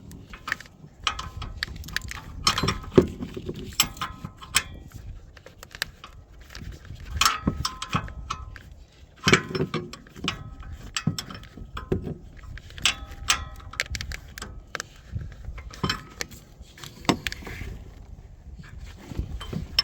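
Wrench work on engine bolts: irregular metallic clicks, clinks and knocks of hand tools against metal.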